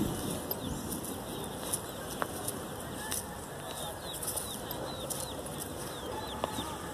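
Small birds chirping over and over in short, high, falling chirps, over a steady background hiss. A low bump sounds right at the start.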